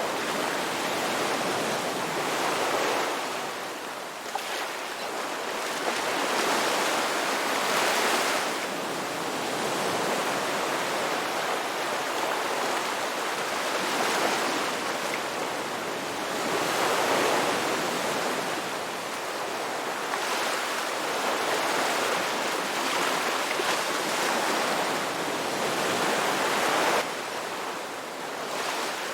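Ocean waves breaking and washing on the shore, a continuous surf noise that swells and eases every few seconds, dropping away suddenly near the end.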